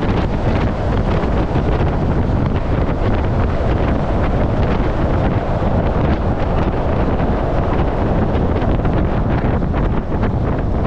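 Wind buffeting the microphone over the steady low rumble of a truck driving on the road.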